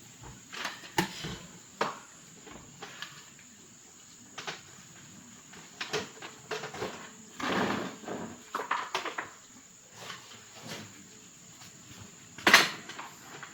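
Irregular knocks, clicks and clatter of objects being handled, with the loudest knock near the end. A steady high-pitched insect-like drone, such as crickets, sits behind them.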